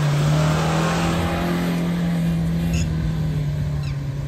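Suzuki Jimny's 1.5-litre four-cylinder petrol engine revving hard, held at a steady high pitch. A rushing hiss rides over it and fades after about a second and a half.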